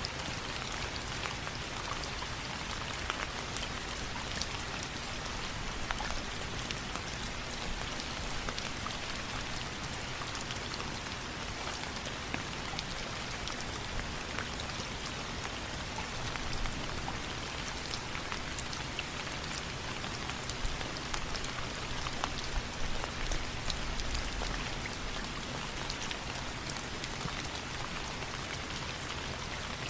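Steady rain falling, an even hiss with many small sharp ticks of drops scattered through it.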